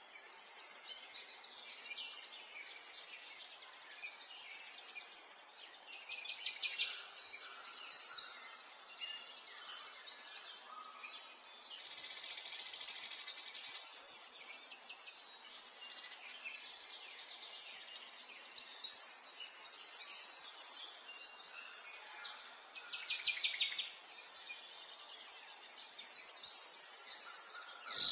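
Several birds chirping and singing in quick, repeated trills over a faint steady background hiss, with a sharp click near the end.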